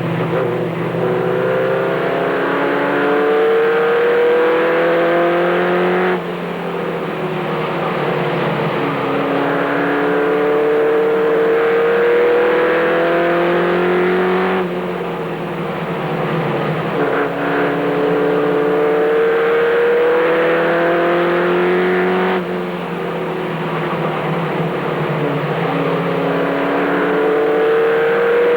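Race truck's engine heard from inside the cab at racing speed. Its pitch climbs steadily as it accelerates down each straight, then drops abruptly as the throttle is lifted for the turn, three times about eight seconds apart.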